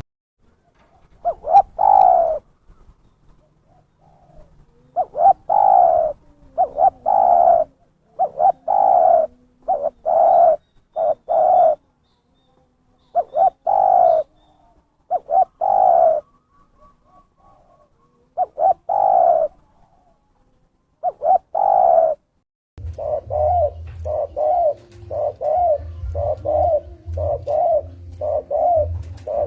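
Spotted dove (terkukur) cooing: repeated short, slightly falling coo notes in irregular groups with pauses. About three quarters of the way in, a faster, steady run of coos starts over a low hum.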